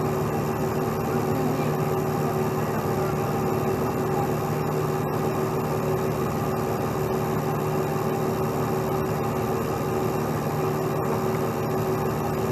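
Heavy truck diesel engine running steadily at a constant speed, an even drone with a fixed hum and no revving.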